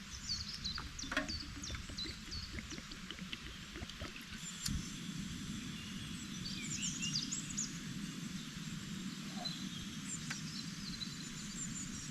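Small birds chirping and twittering in short high phrases over a steady low rush, with a few sharp clicks; the rush grows a little stronger about five seconds in.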